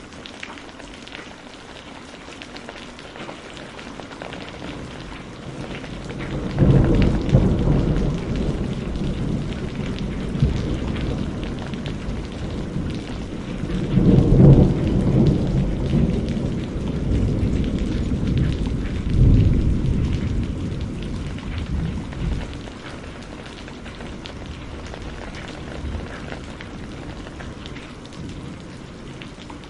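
Steady rainfall with a long roll of thunder: the rumble breaks in sharply about six seconds in, swells twice more, and dies away after about twenty seconds, leaving the rain alone.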